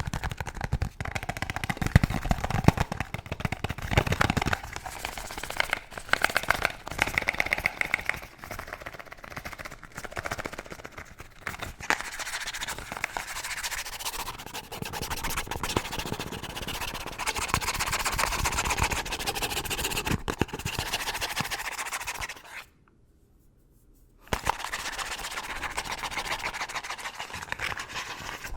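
Fast, aggressive scratching and tapping on hard objects close to the microphone: dense rapid clicks and scratches, with heavier taps in the first few seconds. It breaks off for about a second and a half near the end, then resumes.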